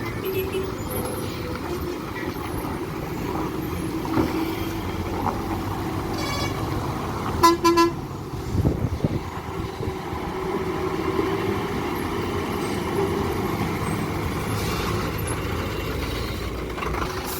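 Heavy diesel trucks running steadily under load, with two horn blasts a little past the middle, the second louder and shorter.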